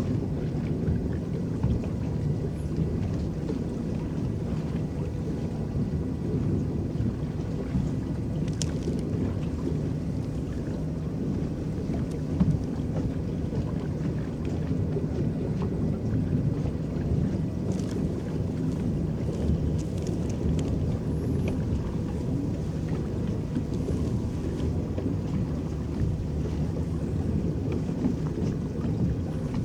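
Electric paddle boat moving across a lake: a steady low churning and rippling of water from its paddles, with a few faint brief high sounds here and there.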